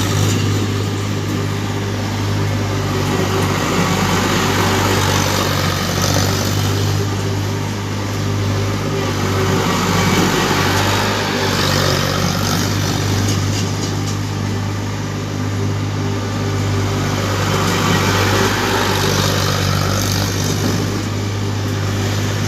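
Tractor's diesel engine running steadily, a constant low drone that swells and eases slightly in loudness.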